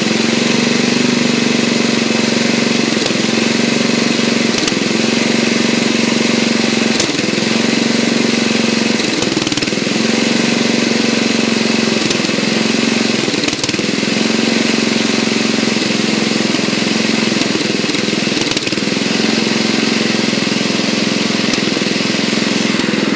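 Briggs & Stratton engine of a lawn tractor idling steadily while running on Seafoam, its speed dipping briefly every second or two.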